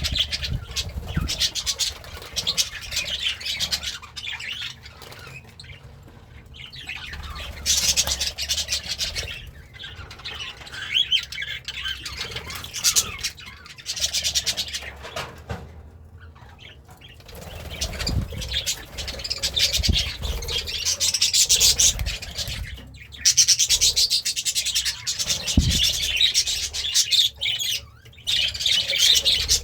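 Budgerigar chattering and warbling in long busy stretches broken by short pauses, with a few low thumps.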